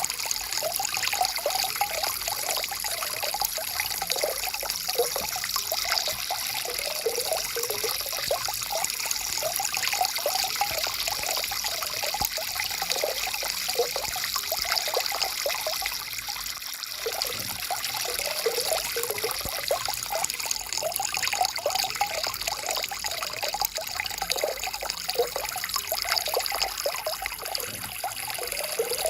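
Shallow stream water trickling and gurgling steadily over stones, with a continuous splashing hiss.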